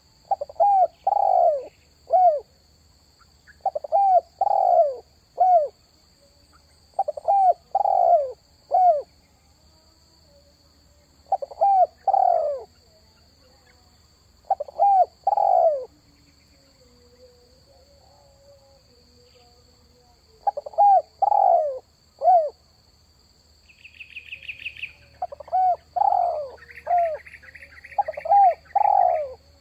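Spotted dove (terkukur) cooing, a repeated phrase of three or four arched coo notes about every three to four seconds. Near the end a brief higher buzzy trill and a pulsed rattle from another source overlap the coos, over a faint steady high hum.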